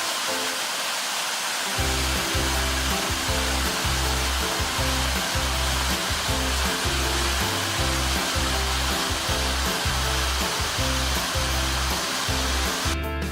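A waterfall's steady roar of falling water, filling the whole range from low to high. Background music with a deep bass comes in under it about two seconds in.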